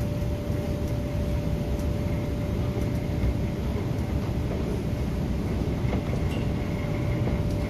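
Cabin running noise of an MTR Tung Chung Line K-Train electric multiple unit at speed: a steady low rumble of wheels on rail, with a constant thin whine over it.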